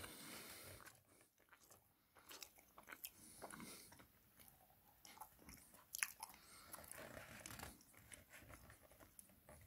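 Faint chewing of a mouthful of soft salted caramel and chocolate tart: scattered small wet clicks in near silence, the loudest about six seconds in.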